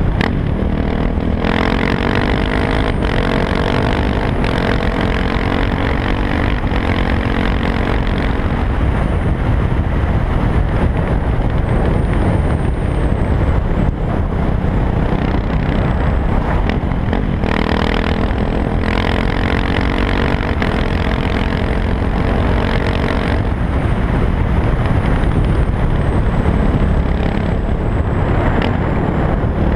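KTM 690 SMC R single-cylinder engine through an Arrow exhaust with the dB killer removed, pulling hard through the gears: the pitch climbs in steps with a brief drop at each shift, twice. Between the pulls it runs steadily under heavy wind rush.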